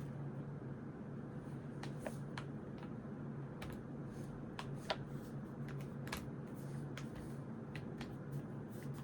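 Irregular small clicks and taps of a pen and stationery being handled on a desk during writing, a dozen or so, one sharper near the middle, over a steady low hum.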